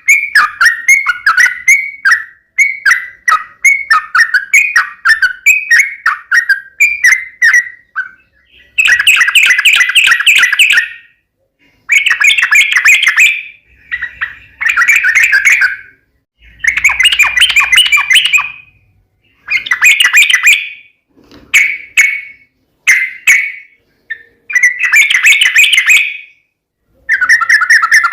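Yellow-vented bulbul (trucukan) singing its fighting song. It opens with a fast run of short chattering notes, then sings bubbly phrases of a second or two each, with short pauses between them.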